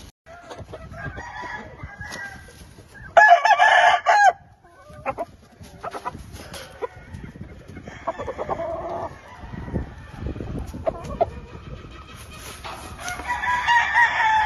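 Gamefowl roosters crowing: one loud, close crow about three seconds in, further crows around eight seconds and again near the end, with chickens clucking in between.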